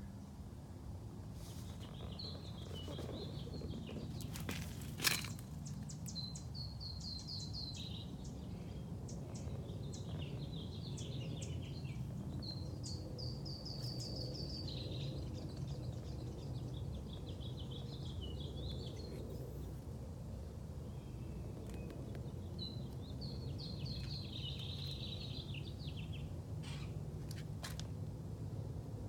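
Small songbirds singing: repeated phrases of high chirps and trills, over a steady low background rumble. A single sharp click stands out about five seconds in.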